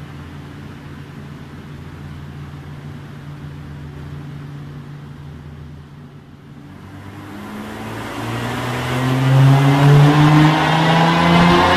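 Steady low hum for about six seconds. Then a tuned Nissan GT-R's twin-turbo V6 pulls on a chassis dyno under load, its note climbing slowly in pitch and growing much louder.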